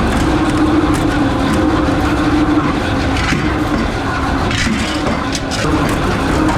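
Workshop machinery running with a steady hum and a few light metallic clicks.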